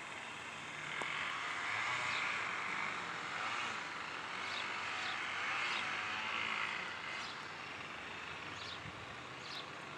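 Distant airplane passing overhead: a broad, steady engine drone that swells for a few seconds and then fades. A few faint, short high bird chirps sound over it.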